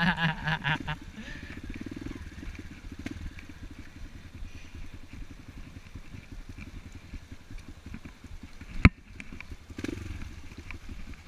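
Enduro dirt bike engine running steadily, a low pulsing sound, with one sharp knock about nine seconds in.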